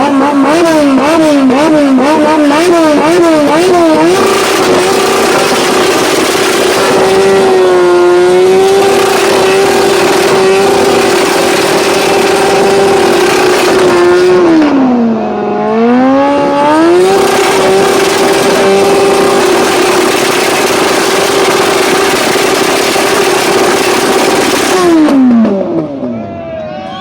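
Yamaha racing motorcycle engine revved hard through an open exhaust: quick blips a few times a second at first, then held at high revs for long stretches, dropping and climbing back once midway, and falling off near the end.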